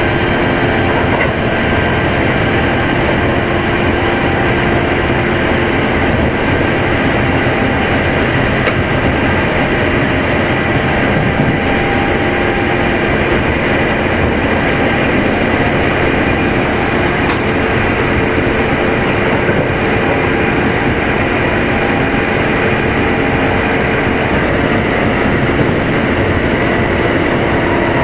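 Kintetsu 2610 series electric train running at a steady speed, heard inside motor car Mo 2616. Traction motor and gear hum rides over the rumble of the wheels on the rails.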